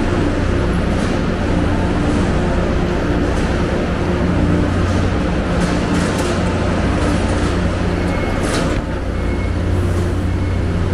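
Steady low mechanical hum and rumble of a train standing at the platform, with a few sharp clicks and knocks scattered through it.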